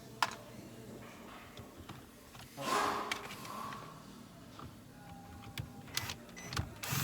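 A click, then a short whir of a small power driver backing out screws about three seconds in, with light clicks and rattles of plastic column trim and switch parts being handled near the end.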